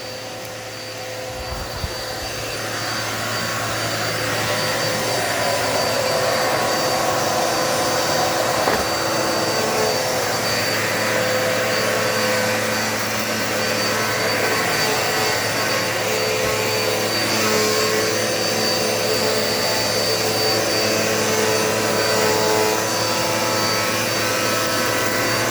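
Dirt Devil multi-surface vacuum cleaner running with a steady motor whine. It grows louder over the first few seconds, then holds even with small swells as it is pushed across the floor.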